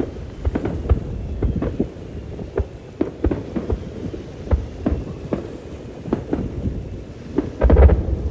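Aerial fireworks bursting in a rapid, irregular barrage of booms and cracks over a continuous low rumble, with the loudest cluster of bursts near the end.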